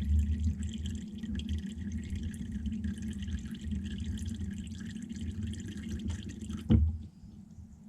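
Used engine oil draining from a car's sump into a drain pan, a steady splashing stream. A sharp knock comes near the end, after which it goes much quieter.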